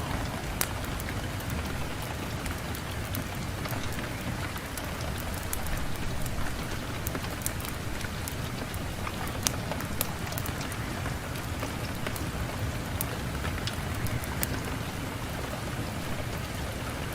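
Wood fire crackling in a fireplace: a steady hiss and rumble with scattered sharp pops and snaps, one louder pop about halfway through.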